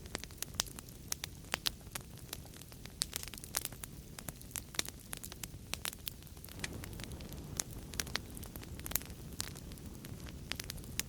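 Wood fire crackling in a fireplace: frequent sharp pops and snaps over a low, steady rumble of burning, the rumble growing fuller about halfway through.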